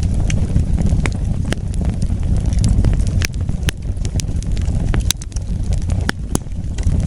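Wood fire burning, with a dozen or so sharp crackles and pops at irregular intervals over a steady low rumble.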